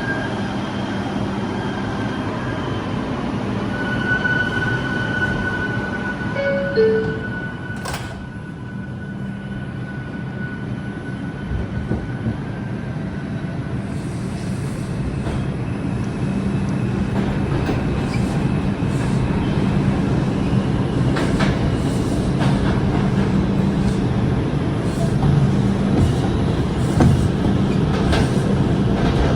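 Inside an R142 subway car: a two-note descending door chime sounds about 7 s in, and the doors shut with a sharp knock about a second later. The train then pulls out, its running noise building as it gathers speed, with scattered clicks from the wheels over the rails.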